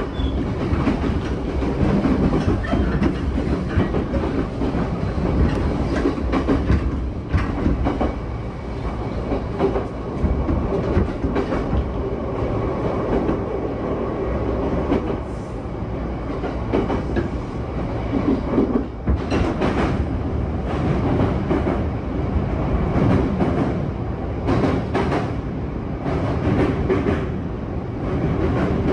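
Running noise inside an E233 series 7000-subseries electric commuter train car under way: a steady rumble of wheels on rail. Now and then the wheels click sharply over rail joints, in small groups about two-thirds of the way through and again near the end.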